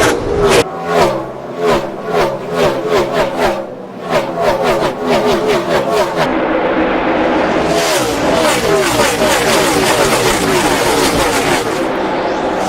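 A pack of NASCAR Cup cars' V8 engines going by one after another at racing speed, each engine note dropping in pitch as the car passes.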